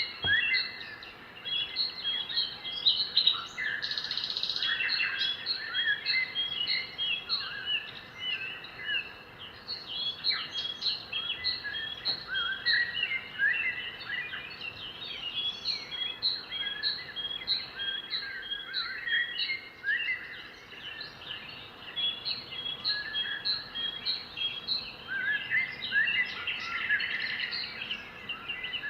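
Several birds singing and calling at once: a dense chorus of short chirps and whistles, with one bird repeating a short high note about twice a second for long stretches.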